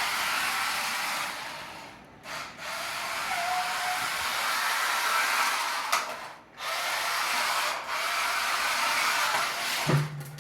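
Electric motor of an RC drift car whirring under throttle while its tyres slide on a rough floor, in long spells that cut off briefly twice as the throttle is let off. A sharp knock near the end, after which the whirring stops.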